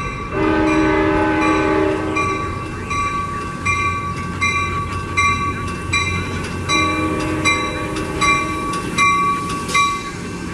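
Passenger train's multi-chime air horn sounding two blasts, a long one at the start and a shorter one about six seconds later, while a bell rings steadily at about one and a half strokes a second.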